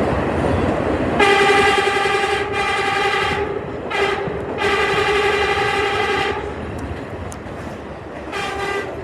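New York subway train running with its horn sounding in several blasts: two long ones a second or so in, a short one near 4 s, another long one to about 6 s, and a shorter one near the end. Wheels clatter and the train rumbles underneath.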